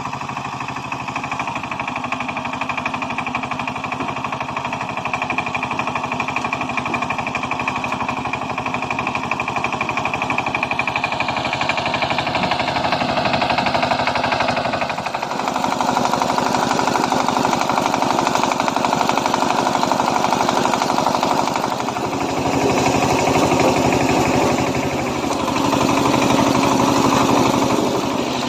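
Kamco power tiller's single-cylinder diesel engine running with a rapid knocking chug, working under load as the tynes plough. It gets louder about halfway through and dips briefly twice near the end.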